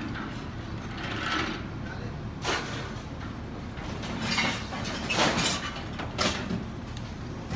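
A car-grabbing claw machine at a scrap yard: its engine runs steadily while the claw handles scrap cars, with several loud scraping and crunching metal noises in the second half.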